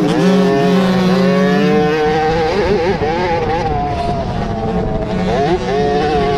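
Several 50cc motocross minibike engines racing together, each rising and falling in pitch as the riders rev and shift, their sounds overlapping.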